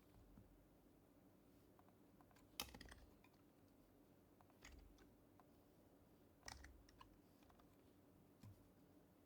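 Faint, scattered keystrokes on a Happy Hacking Keyboard Professional HYBRID Type-S with silenced Topre switches. There are a few short clusters of taps a second or two apart, the strongest about two and a half seconds in and again past the middle.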